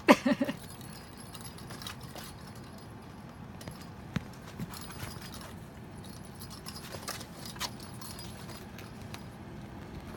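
A kitten playing on its own: light clicks, taps and rattles come and go, after a short loud pitched squeak or sound right at the start.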